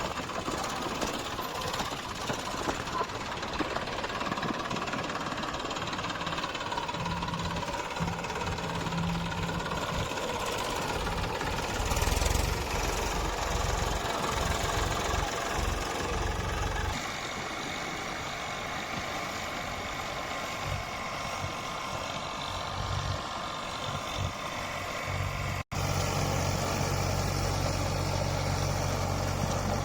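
Eicher 485 tractor's diesel engine running. The sound cuts off abruptly about 26 seconds in and picks up again as a steadier low drone.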